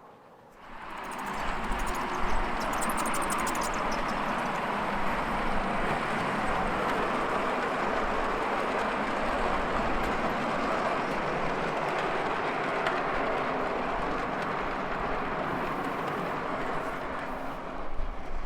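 5-inch gauge miniature train of loco and wagons running on the track, a steady rolling rumble that starts abruptly just under a second in.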